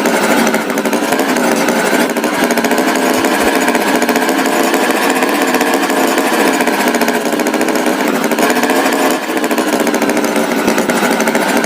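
Tractor engine sound running with a steady, loud rattling drone.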